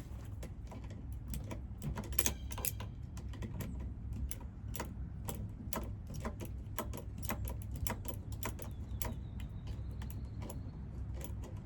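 Irregular light clicks and taps, a few a second, from small parts being handled while new fuel lines are fitted to an earth auger's fuel tank, over a steady low rumble.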